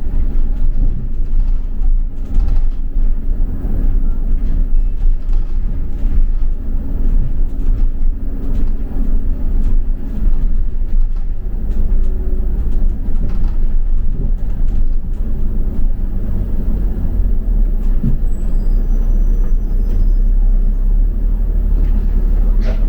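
Double-decker bus running, heard from inside the passenger cabin: a steady low engine and road rumble.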